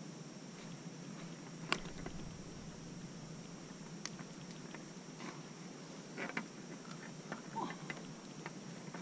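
Faint scattered clicks and taps over a low steady hiss, with one sharper click about two seconds in.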